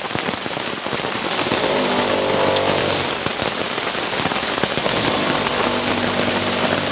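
Heavy rain pattering steadily, dense with sharp drips. Twice a steady hum with a high whine rises over it, about one and a half seconds in and again about five seconds in.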